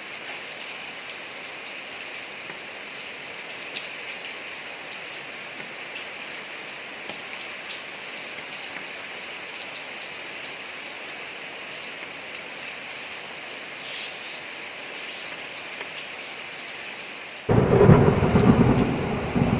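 Steady rain falling on a street, with scattered drops ticking. Near the end a sudden loud clap of thunder breaks in and rumbles on, slowly dying away.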